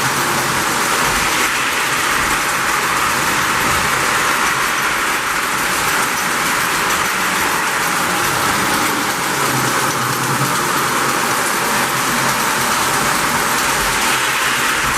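Lionel postwar #746 J-class O-gauge locomotive running on three-rail track: a steady rumble of its motor and wheels.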